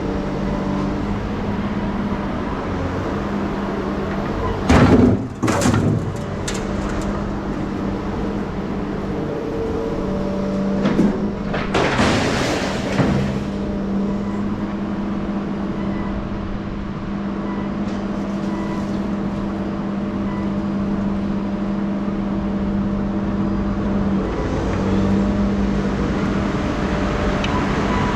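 A motor vehicle engine running steadily, with a couple of sharp knocks about five seconds in and a brief louder rushing noise around twelve seconds.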